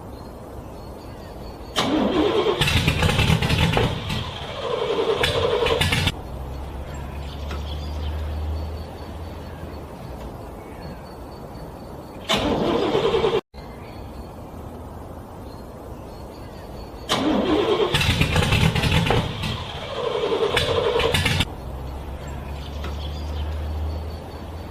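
A car engine cranked over and over in extreme cold, struggling to start. The loud cranking bursts last a few seconds each, with quieter gaps between them, and the sequence repeats about two-thirds of the way through.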